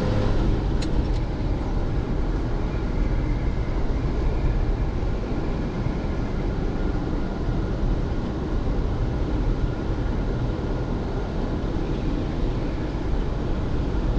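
1974 Ford F-250's 360 FE V8 running steadily while the truck drives along, with a constant low rumble of engine, drivetrain and road noise. A couple of faint clicks about a second in.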